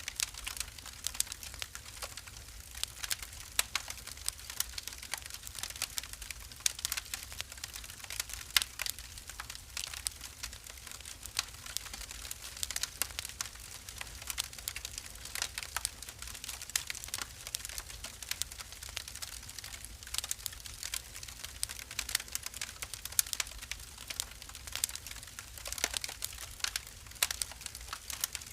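Wood fire in a fireplace crackling, with dense, irregular sharp pops and snaps over a faint low rumble of the flames.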